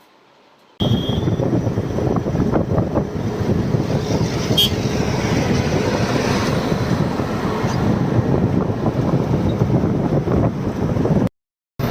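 Loaded truck driving on the highway: diesel engine running with road and wind noise. It starts abruptly about a second in and drops out briefly near the end.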